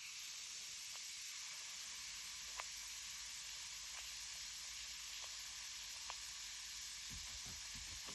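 Bath bomb of baking soda and citric acid fizzing in water: a steady hiss with a few faint pops scattered through it and a couple of soft low thumps near the end.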